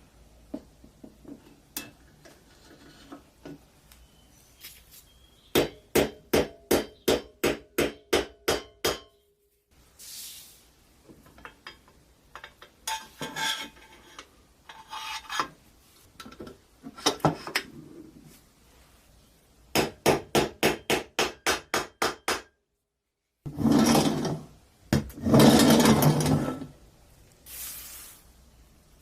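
Hand-tool work on the rusty pressed-steel body of an old toy truck: runs of quick, evenly spaced strokes, about three a second, broken by pauses and longer scraping passes.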